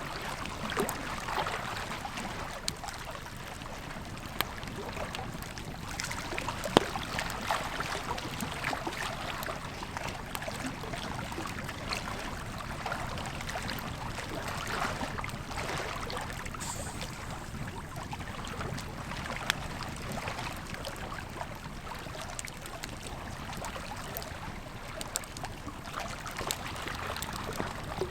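Campfire crackling with scattered small pops and one sharp pop about seven seconds in, over the steady rush of a flowing river.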